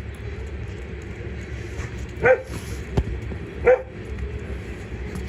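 A dog barks twice, about a second and a half apart, over a steady low rumble, with a sharp click between the barks.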